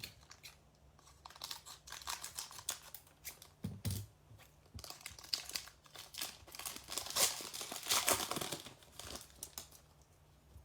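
A trading-card pack wrapper crinkling and tearing open by hand, in irregular crackles that are busiest toward the end.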